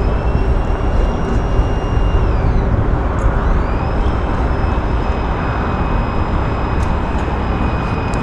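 Steady rushing noise of the river and wind. Over it, a thin whine glides up, holds about two seconds and falls away, then rises again and holds.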